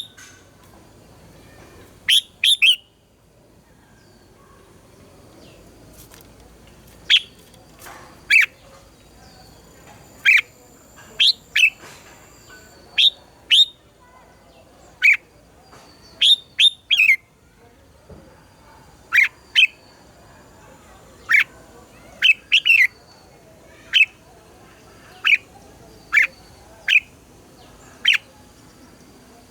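Red-whiskered bulbul calling: short, sharp, high notes about once a second, some coming in quick pairs or threes.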